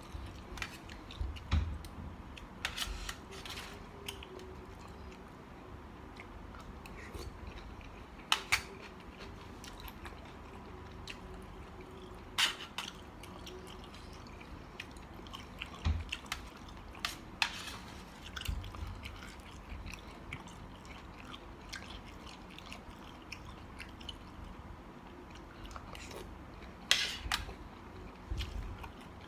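A person eating mixed seafood salad: chewing, with scattered short crisp clicks and crunches every few seconds.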